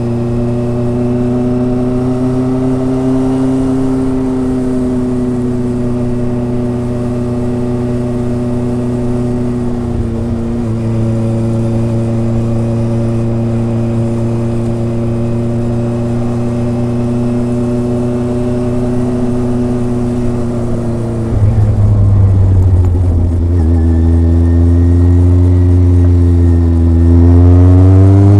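Kawasaki ZRX's inline-four engine and exhaust under way, holding steady revs with a brief dip about ten seconds in. About twenty-one seconds in the note drops and grows louder, then climbs again near the end as the bike accelerates.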